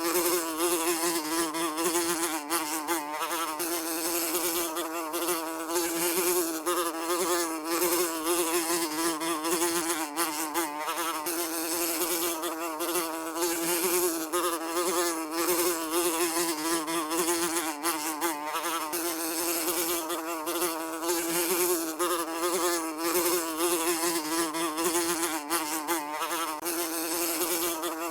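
A housefly buzzing without a break, its low drone wavering slightly in pitch as it flies.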